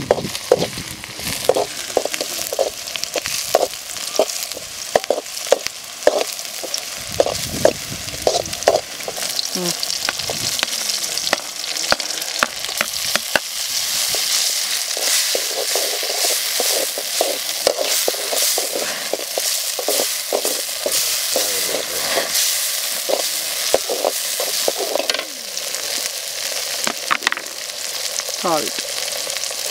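Chopped tomatoes and onions sizzling as they fry in a metal pan, with a metal ladle scraping and clinking against the pan as they are stirred. The clinks are thick through the first half; the sizzle grows steadier and louder in the second half.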